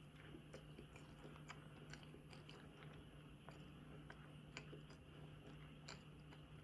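Faint chewing of sweets, with small crisp clicks and crunches scattered through it, over a low steady hum.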